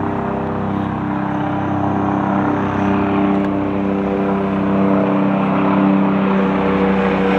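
Steady engine drone with a low hum, its pitch shifting slightly about halfway through.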